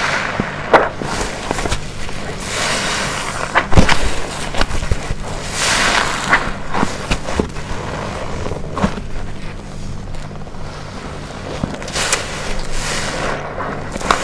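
Black waffle-textured car-wash sponge soaked with detergent being squeezed by hand, again and again. Each squeeze gives a wet, hissing swell of noise, with crackling and sharp clicks from the foam and suds between them.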